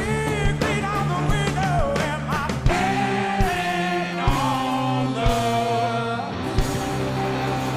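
Live blues-rock band playing: electric guitar lines with bends and vibrato over bass and drums, with singing.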